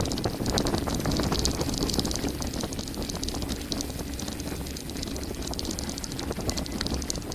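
Mountain bike descending a gravel forest road at speed: tyres rumbling over loose stones with a constant rapid rattle from the bike, and wind buffeting the microphone.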